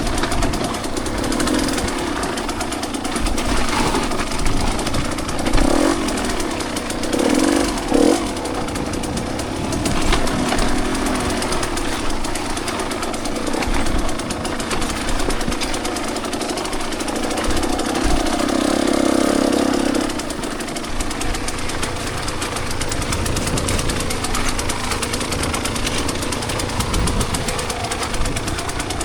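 Two-stroke dirt bike engine running under varying throttle on a trail ride, its revs rising and falling, with harder pulls around the middle of the stretch.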